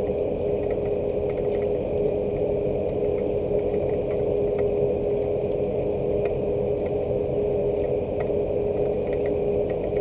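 A steady hum holding one constant tone over a low rumble, with faint, scattered ticks of rain drops over it.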